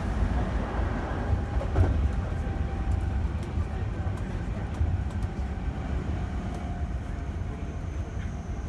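Hankyu 8000-series electric train running, heard from inside the passenger car: a steady low rumble of wheels on rail with a faint motor whine, and a single knock about two seconds in. The sound eases slightly toward the end.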